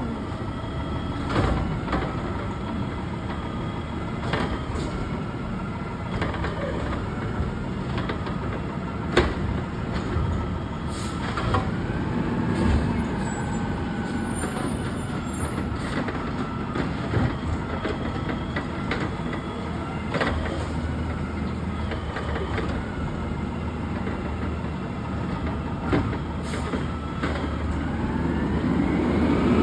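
Garbage truck's diesel engine running, with scattered sharp knocks and clanks. Near the end the engine builds up, louder and rising in pitch.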